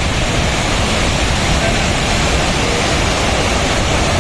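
Pykara waterfall's water rushing, a loud, steady noise with no let-up.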